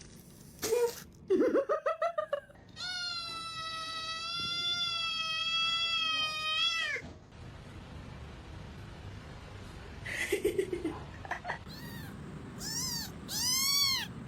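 A cat meowing: a short meow and a quick run of chirps, then one long drawn-out yowl of about four seconds, and a few short meows near the end.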